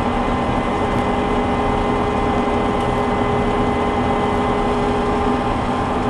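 Small combine harvester running steadily while harvesting soybeans at a slow crawl: an even engine and threshing drone with a few constant whining tones.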